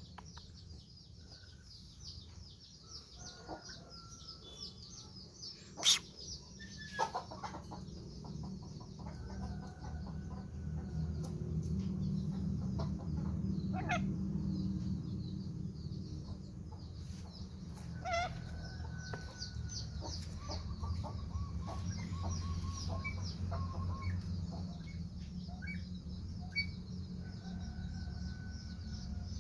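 Birds calling: a dense, continuous high chirping with scattered short calls and whistled notes, over a steady low rumble. A sharp click stands out about six seconds in.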